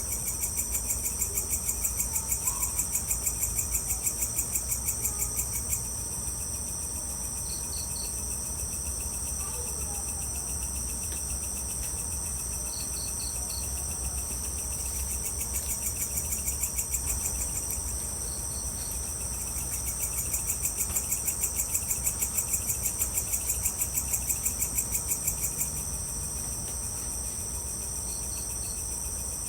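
Night insects, crickets, chirping: a steady high shrill chorus, with two long pulsing trills of about four to five beats a second, one at the start and one about two-thirds of the way in. Short three-note chirps recur every five seconds or so, over a faint low rumble.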